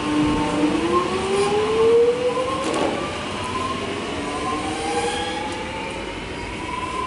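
An X'Trapolis 100 electric suburban train pulling away from the platform. Its traction motors hold a steady tone that begins to climb under a second in, in several rising whines as it gathers speed. There is a short knock about three seconds in.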